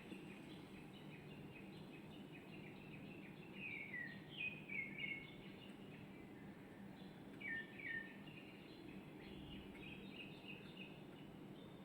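Small songbird singing faintly: a run of high chirps, with the loudest falling notes about a third of the way in and again about two-thirds through, over a steady low hum.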